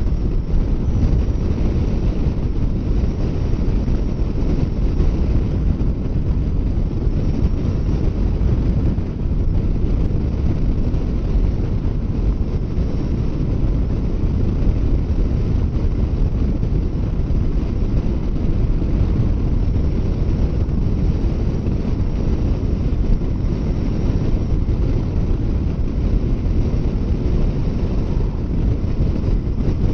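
Steady wind rush over the microphone of a Kawasaki Versys 650 motorcycle riding at highway speed, a low, even roar with the bike's running blended in and no break.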